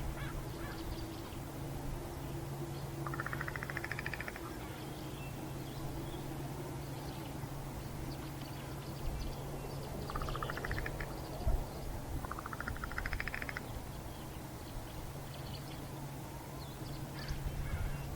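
A crow making a gurgling, rattling call three times: once about three seconds in and twice more close together around the middle, each about a second long. A steady low hum runs underneath.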